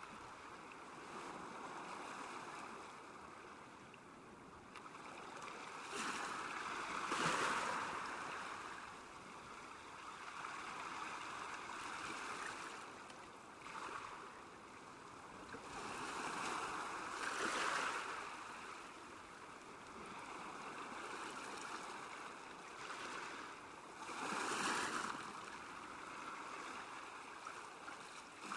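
Small waves lapping on a lakeshore: a steady wash of water with three louder swells several seconds apart.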